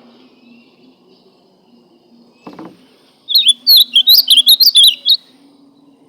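Ultramarine grosbeak (azulão) singing one loud, quick warbled phrase of about two seconds, starting about three seconds in. A short soft knock comes just before it.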